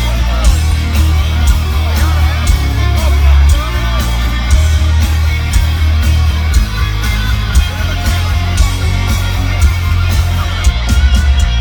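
Heavy metal band playing live: distorted electric guitars over heavy bass and steady drum hits, with some singing, as picked up by a phone in the crowd.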